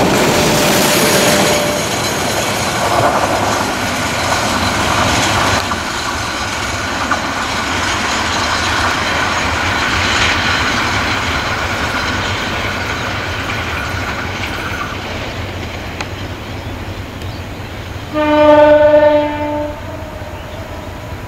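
A passenger train's coaches running past on the rails, with the wheel and rail noise slowly fading as the train draws away. Near the end comes one loud locomotive horn blast, about a second and a half long.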